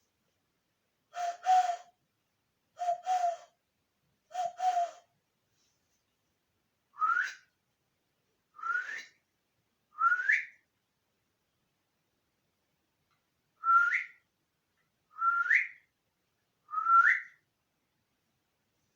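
Nine short whistled calls in three sets of three. The first three are lower, breathy double notes; the last six each slide quickly upward in pitch.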